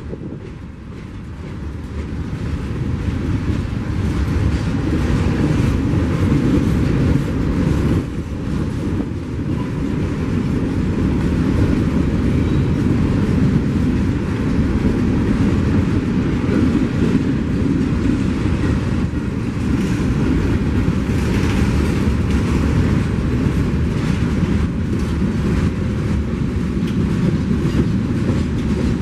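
A train passing close by: a heavy rumble of wheels on rail, dotted with clicks, building over the first few seconds and then holding steady.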